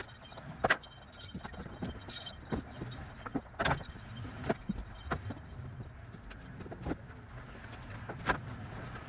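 Irregular sharp knocks and metallic clinks, about a dozen spread over several seconds, from hand work tearing up old decking boards, over a low steady rumble.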